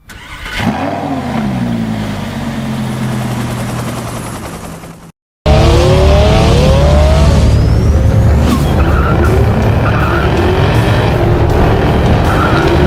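Car engine revving through an aftermarket sports exhaust: a quick rev that falls back and settles, then after a brief gap the engine runs loud, with revs rising and falling.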